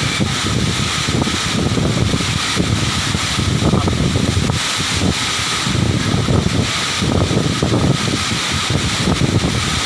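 Steady rushing roar of a waterfall, with irregular low rumbling from wind buffeting the microphone.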